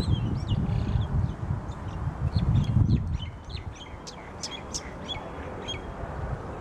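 Several small birds chirping, with many short, quick chirps overlapping. A low rumble sits under them and drops away about halfway through.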